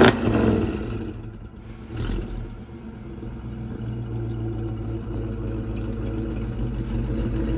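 A vehicle engine idling steadily, a low even rumble. It dips briefly about a second and a half in, then comes back up and holds.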